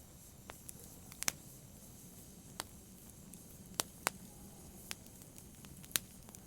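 Wood fire crackling in a fireplace: irregular sharp pops, about nine of them, the loudest near four and six seconds in, over a low steady rumble of the flames.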